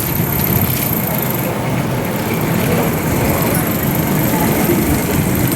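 Steady rumbling wind noise on the microphone of a bicycle-mounted action camera while riding.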